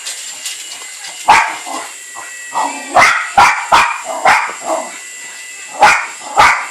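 Jack Russell terrier barking at a model remote-control helicopter: about seven sharp, loud barks in irregular bunches.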